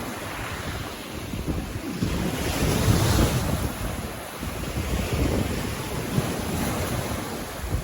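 Ocean waves breaking and washing up the beach, one swelling to its loudest about three seconds in, with wind buffeting the microphone as a low rumble.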